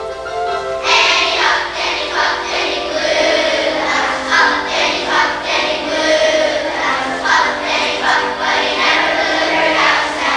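A chorus of children singing a song together.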